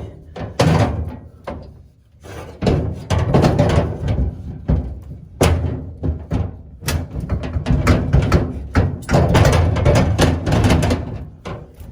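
Repeated clunks, thumps and rattles of heavy gear, a boat motor among it, being lifted and shifted around a vehicle's cargo area, with a short lull about two seconds in.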